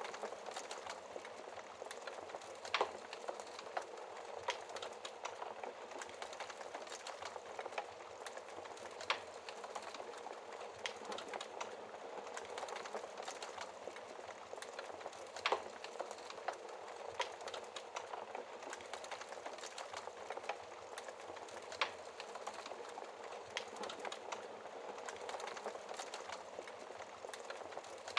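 Wood fire burning in a fireplace: a steady hiss of flames with irregular crackles and a few louder pops.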